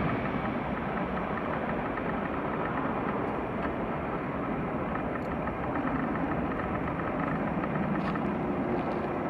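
Jet engine noise of an Airbus A320-214 climbing away after takeoff, its CFM56 turbofans a steady distant rumble that eases off in the first second and then holds level.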